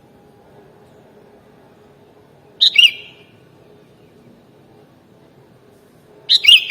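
Sooty-headed bulbul (kutilang) singing short, loud two-note phrases, one about three seconds in and another near the end, over a faint low hum.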